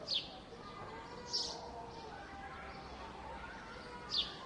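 Birds chirping: three short, sharp high chirps, the first and last falling quickly in pitch, over a faint steady murmur of distant voices.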